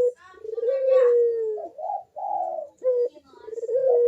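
Puter doves cooing in their full 'manggung' song: repeated long, slightly falling coos about a second each, with shorter, higher notes between them.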